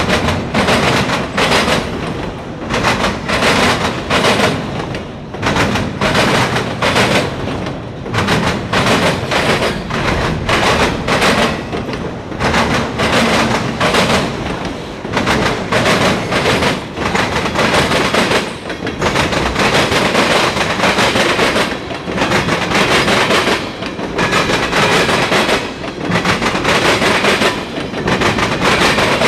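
CSX mixed freight train rolling past, its wheels clattering over the rail joints in a steady rhythm of sharp knocks over a continuous rumble.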